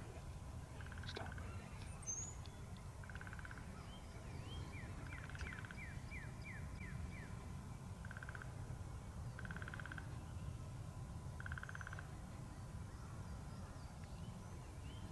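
Wild birds calling in the open: one songbird gives a run of about seven quick falling whistled notes, and repeated short buzzy trills come every second or two, over a steady low rumble of wind.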